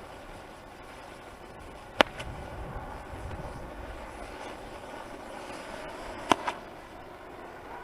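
Fireworks bursting: one sharp, loud bang about two seconds in, then two bangs in quick succession near the end, over a steady low background rumble.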